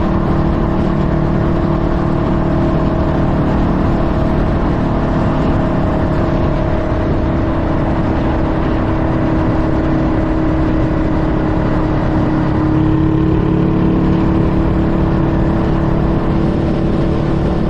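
Honda Rebel 500 motorcycle's parallel-twin engine running at a steady, near-constant pitch, with a slight shift in pitch about two-thirds of the way through.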